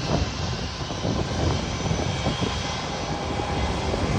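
Jet airliner engines running at taxi power: a steady rumble with a faint high whine over it.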